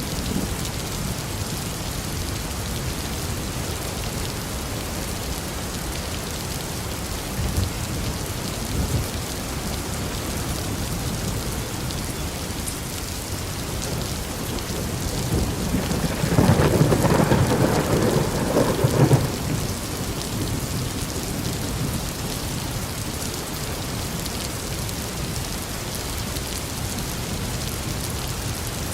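Steady rain pouring down, with a roll of thunder rising about halfway through that rumbles for a few seconds before dying back into the rain.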